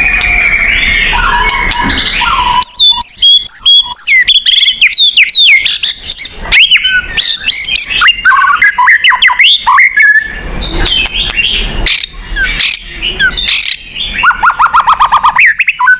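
White-rumped shama (murai batu) singing loudly: a rapid, varied run of whistles, chirps and harsh notes, with a fast trill of repeated notes near the end. A rougher stretch of song gives way abruptly to sharper, clearer phrases about two and a half seconds in.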